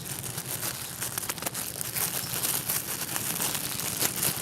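Plastic packaging crinkling irregularly as a squishy toy in its wrapper is handled.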